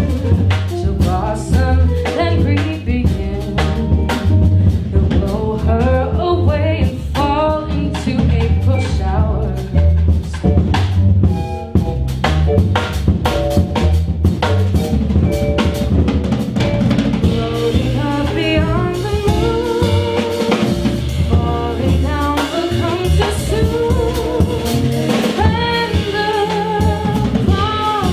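A jazz band plays an instrumental passage. A drum kit with snare, rimshots and bass drum keeps a steady groove over a bass line, while a melody instrument moves on top.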